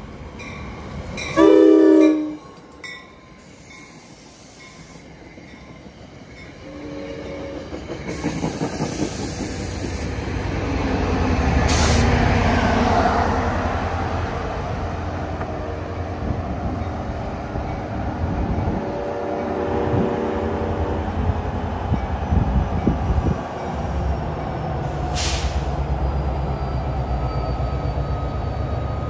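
NJ Transit commuter train hauled by a PL42AC diesel locomotive, its horn blaring in a loud blast about a second and a half in and sounding again, shorter, around seven seconds and around twenty seconds in. From about eight seconds in, the rumble of the locomotive and the wheels on the rails builds and carries on to the end.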